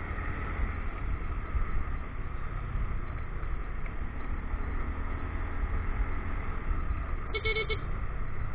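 Motorcycle riding along: a steady low rumble of engine and road noise. About seven seconds in comes a single short horn beep of about half a second.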